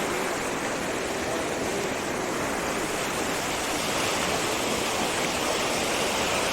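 Water rushing steadily down a seasonal stream channel that is running full after heavy rain.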